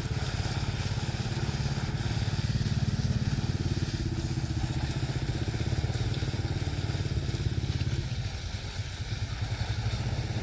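A small engine running steadily, easing off for about a second near the end before picking up again.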